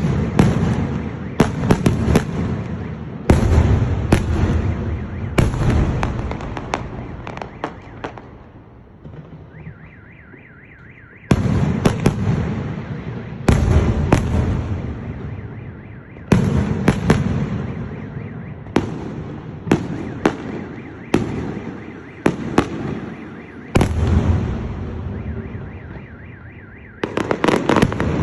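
Large aerial firework shells bursting overhead: a sharp boom every one to three seconds, each followed by a long echoing rumble and crackle. During a lull about a third of the way in, a pulsing electronic tone is heard.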